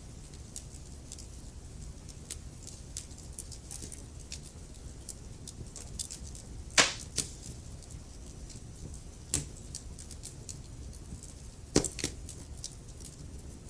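Wood fire crackling in a fireplace: frequent small clicks over a low rumble, with sharper pops from the burning logs about seven, nine and twelve seconds in, the one at seven the loudest.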